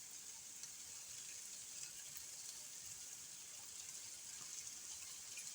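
Faint, steady sizzling of food frying in a frying pan (onions, garlic and freshly added sauerkraut), with a few small crackles.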